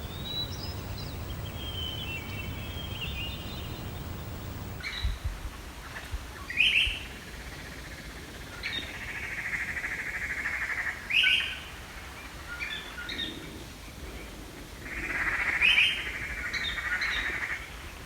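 Birds singing. At first there is high twittering over a low rumble; after an abrupt change about five seconds in, a bird gives short sharp rising calls and, twice, a buzzy trill lasting about two seconds.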